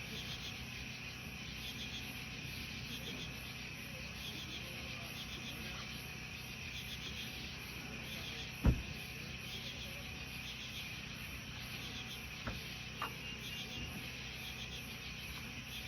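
A steady chorus of insects, chirping in fast, evenly repeating high pulses. A single sharp knock comes about halfway through, and two fainter clicks follow near the end.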